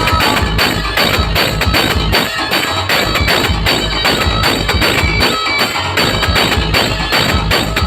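Loud DJ music with a heavy bass beat and percussion, played through a large PA sound system.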